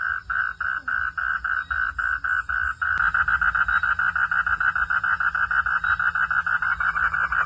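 Frogs calling in a regular train of pulsed notes, about four or five a second; about three seconds in, after a sharp click, the pulsing becomes much faster and denser and keeps going.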